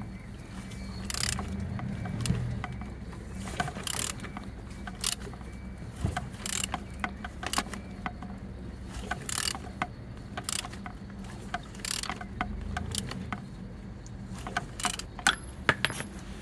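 Mercedes-Benz M112 V6 engine being turned over by hand with a wrench: repeated sharp clicks and knocks from the tool and crank, roughly one a second, over a steady low hum. The engine turns freely, with compression on all cylinders.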